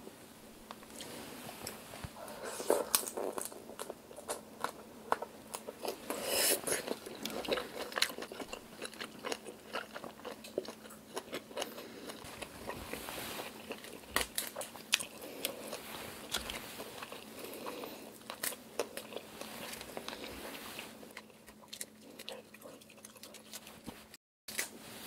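Close-up chewing and biting of boiled black tiger shrimp, many small wet clicks and crunches. Near the end the chewing thins out to sparse crackles as a shrimp shell is pulled off by hand.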